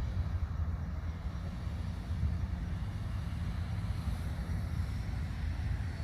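Steady low rumble with a faint hiss above it, even throughout with no distinct events.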